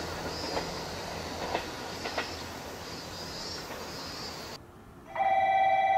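Train running on the rails with a few sharp clacks over rail joints. Just after five seconds this gives way to a loud, steady electric platform bell ringing, a station warning signal.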